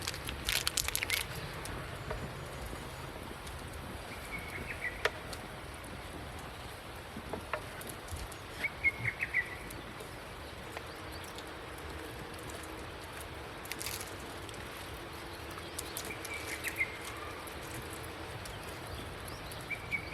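Birds calling: a short chirping trill repeated every few seconds, over a quiet outdoor background with scattered sharp clicks and knocks.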